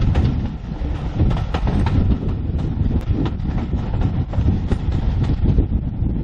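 A train on the move: a steady low rumble with irregular rattles and knocks, and wind buffeting the microphone.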